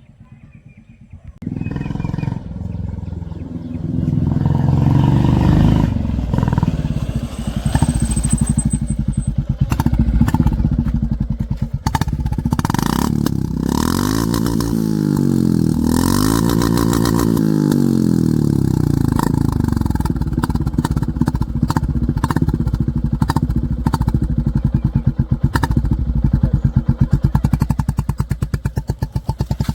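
Royal Enfield Classic 350 Reborn's single-cylinder engine running through an aftermarket HK Indori silencer as the bike is ridden, a loud, regular thumping exhaust beat. The sound cuts in suddenly about a second and a half in, and the engine speed rises and falls twice midway.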